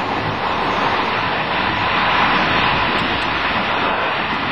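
Steady, loud rush of wheel, track and wind noise inside a moving Corail passenger coach, heard at the vestibule door.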